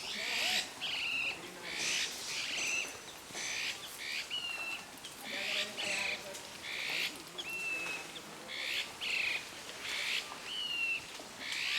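Birds calling: repeated harsh, rasping calls about every second, alternating with a thin, slightly falling whistle.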